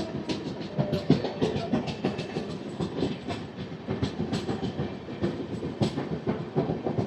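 Express passenger train running on the rails, heard from on board: a steady rumble with many irregular sharp wheel clicks and clatters over the track.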